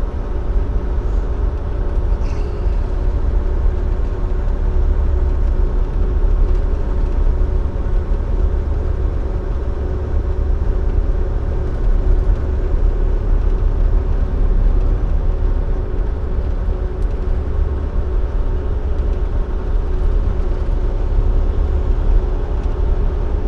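Dump truck's diesel engine and road noise heard from inside the cab while cruising on the highway: a steady low rumble with a constant hum over it.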